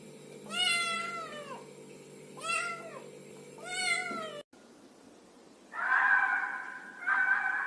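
A domestic cat meowing three times, each meow rising and then falling in pitch. After an abrupt cut about four and a half seconds in, a different, steadier animal call starts and sounds twice.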